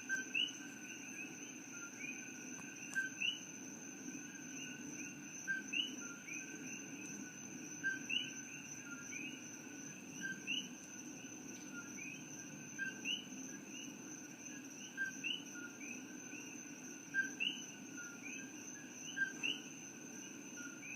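A chorus of coqui frogs calling "co-qui" over and over. Each call is a short lower note followed by a higher note that sweeps upward, and several frogs repeat it every second or so. A steady high-pitched tone and a low hum run underneath.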